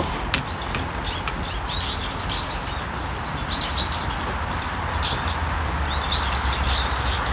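Small birds chirping in quick, repeated short high calls over the steady hiss of light rain falling on pond water, with one sharp click near the start.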